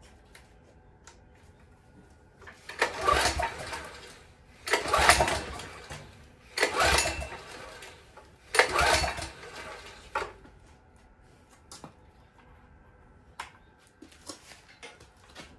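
Recoil starter of a long-idle Yanmar walk-behind cultivator pulled four times, about two seconds apart, each pull a rattling whirr lasting about a second and a half. The engine does not catch.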